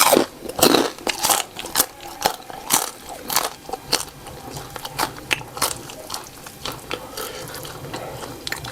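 A person chewing crunchy food close to the microphone, with sharp crunches that come thick in the first half and thin out toward the end.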